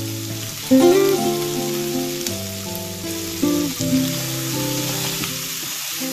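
Pieces of mutton liver sizzling as they fry in a non-stick pan while being stirred, with acoustic guitar background music playing over them.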